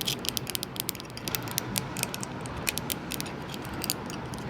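Fingernails tapping and clicking on a hard seashell fragment: quick, irregular sharp clicks, several a second.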